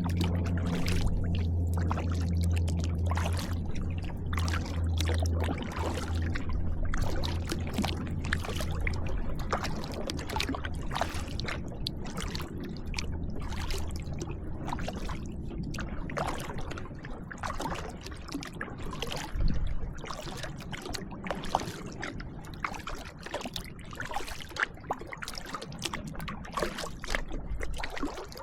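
Kayak paddle strokes splashing and water dripping off the blades, in an irregular patter. A low steady hum is strong for the first few seconds and fades out over the first half.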